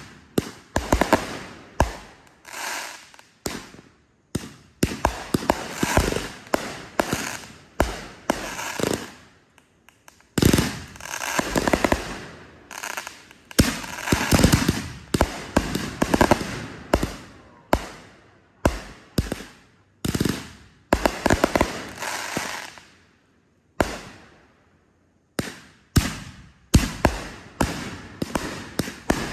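Fireworks going off in a near-continuous barrage of sharp bangs, each fading out in a short tail, with a brief lull near the end.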